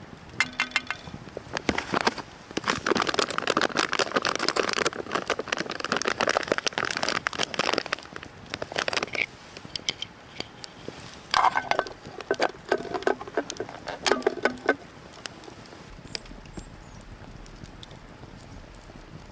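Irregular rustling and crackling with many sharp clicks, in two busy stretches, then dying down to a faint steady low hum near the end.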